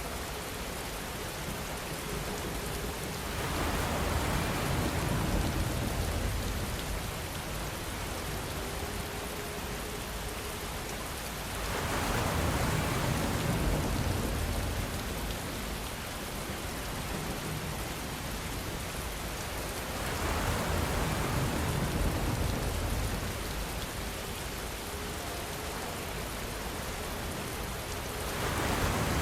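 Steady rainfall, a continuous hiss of drops on a surface, swelling heavier for a few seconds about every eight seconds.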